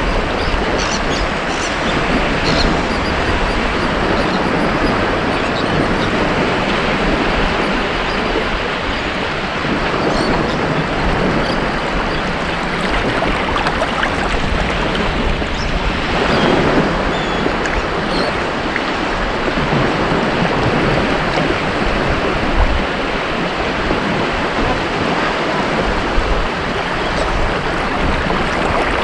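Ocean waves breaking and washing on a beach, a continuous rush of surf that swells and eases, with one stronger wash about sixteen seconds in.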